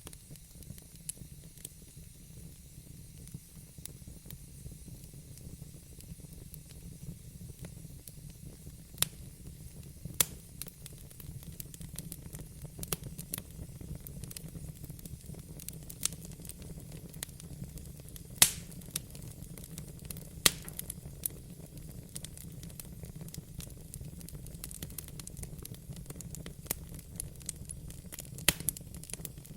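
Wood fire in a fireplace crackling: a low steady rumble with sharp pops and snaps at irregular intervals, a few of them louder, about 10 s and 18 s in.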